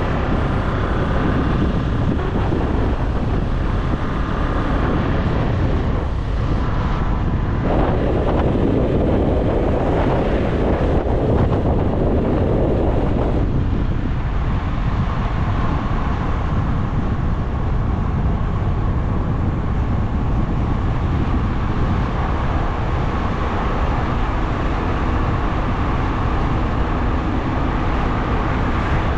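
A motorbike's engine running steadily on the move, with wind rushing over the microphone. Partway through, a louder rush of noise lasts about six seconds.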